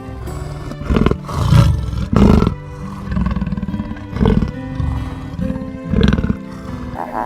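A big cat giving several short, rough roars and growls over steady background music.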